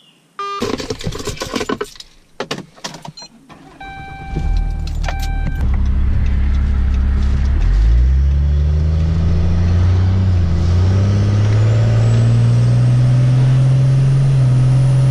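Clatter and jangling of keys and a vehicle's door, then a short electronic chime beeping. The engine comes up and the vehicle pulls away, the engine note climbing and dropping back twice as the transmission shifts up, then settling into a steady drone heard from inside the cabin.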